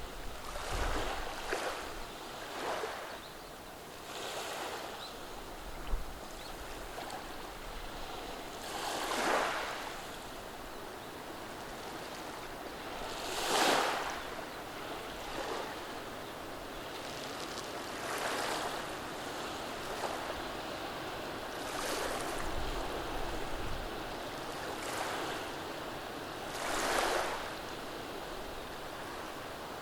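Gentle surf on a beach of rounded stones: small waves wash in and draw back over the pebbles, each one rising and fading every few seconds, with a few larger swells among them.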